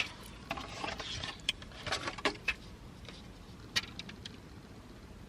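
A series of short plastic clicks and rustles from handling a Febreze Small Spaces air freshener as it is pressed to activate it and set in place.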